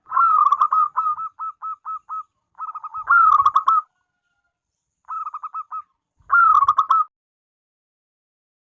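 Zebra dove (perkutut) cooing in four phrases. Each phrase opens with a loud rippling coo and trails into a run of short, clipped notes.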